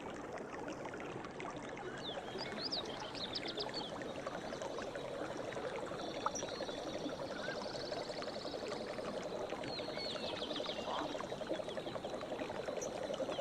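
Running river water with a steady rush, birds chirping and trilling above it. A low, rapid pulsing call joins in about a third of the way through and carries on.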